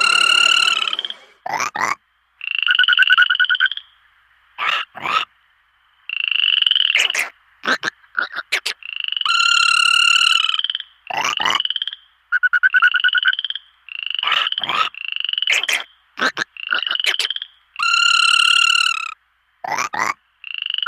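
Frogs calling: repeated trilled croaks, each up to about a second long, alternating with short sharp chirps.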